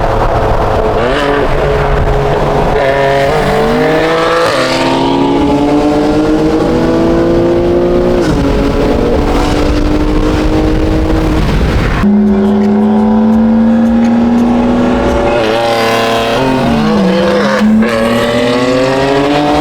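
BMW M car's twin-turbo straight-six accelerating hard through the gears. The engine note climbs, then drops back at each shift, again and again.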